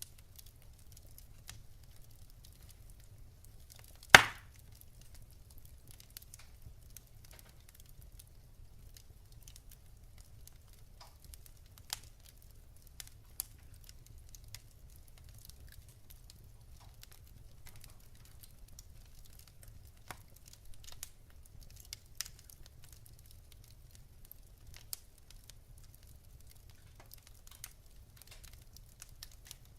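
Wood fire burning in a fireplace, crackling with scattered small pops and one loud, sharp pop about four seconds in, over a faint low rumble.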